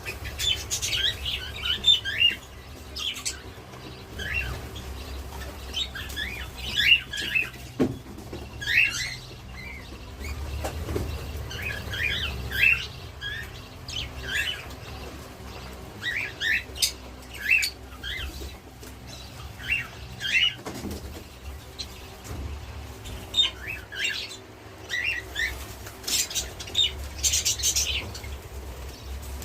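A colony of budgerigars chirping and chattering, many short calls overlapping, over a low steady hum.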